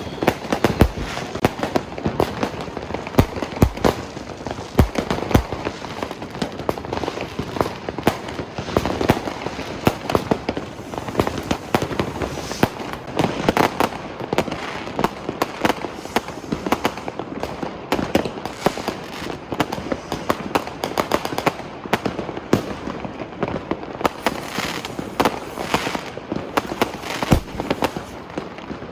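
Many fireworks and firecrackers going off at once: a dense, unbroken run of bangs and crackles overlapping one another, with sharper single bangs standing out every second or so.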